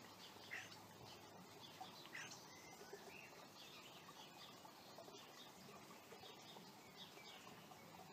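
Near silence with faint birdsong: scattered short chirps and calls from small birds, a few every second or two.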